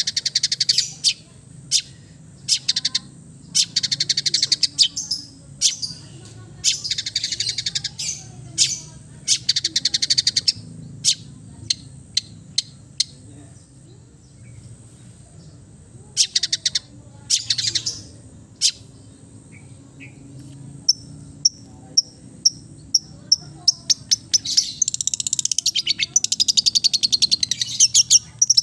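Long-tailed shrike (cendet) singing in bursts of harsh, rapid chattering and sharp single notes, with a run of short evenly spaced whistled notes about two-thirds of the way through.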